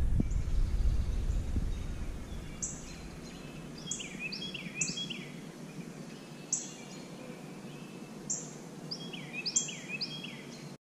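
A songbird singing short, high chirped phrases about once a second, each starting with a sharp downward sweep. A low rumble dies away in the first two seconds.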